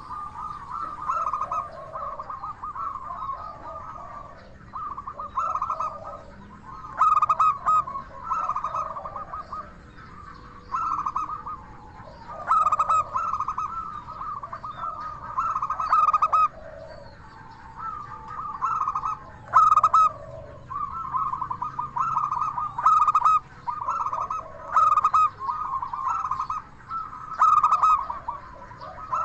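Zebra dove (perkutut) cooing: phrase after phrase of rapid, stuttering coos, each a second or two long with short pauses between.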